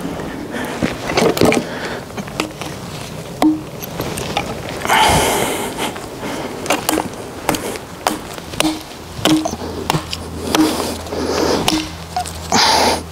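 Irregular knocks, clacks and short cracks of branches and wooden poles being handled and fitted together, with brief rustling scrapes.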